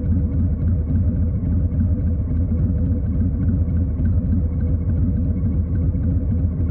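2020 Harley-Davidson Street Bob's Milwaukee-Eight V-twin engine running at a steady speed, a loud, even low rumble with no revving or gear change.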